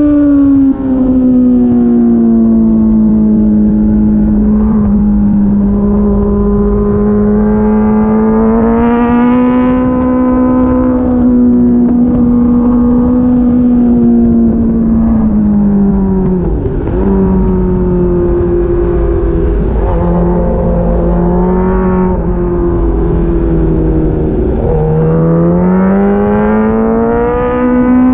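Sport motorcycle engine running hard at high revs with wind rush, the pitch holding high, dropping about two-thirds of the way through as the bike slows and shifts, then climbing again near the end under throttle.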